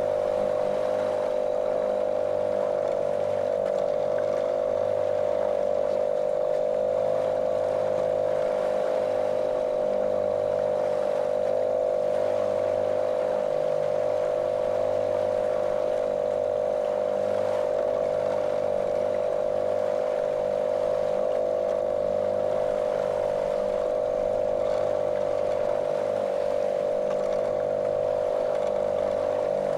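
A small motorboat's motor running at a constant, monotonous pitch, with no change in speed, over a steady hiss.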